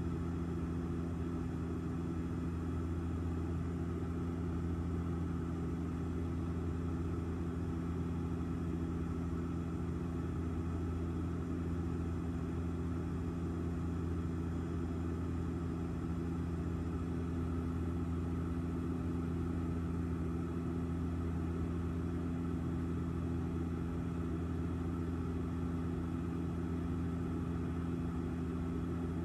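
Airliner cabin noise in flight: a steady, unchanging drone of engines and airflow, with a deep hum running through it.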